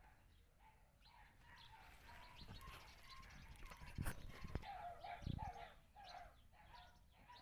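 Faint birds chirping in the background, with a few sharp knocks about four seconds in and a low thump a moment later.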